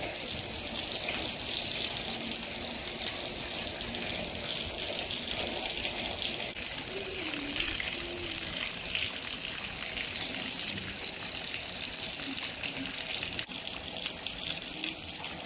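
Heavy monsoon rain falling and running off, a steady hiss of water.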